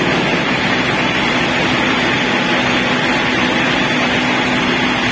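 SDG-450 slab-splitting machine with horizontal circular saws running: a loud, steady mechanical noise with a steady low hum.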